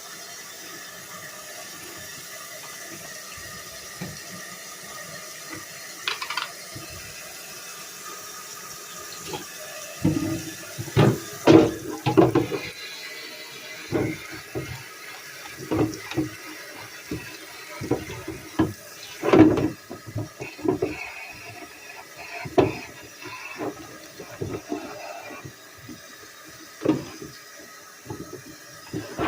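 Water running from a tap into a sink, with irregular knocks and clatters of things being handled under it, most of them from about ten seconds in.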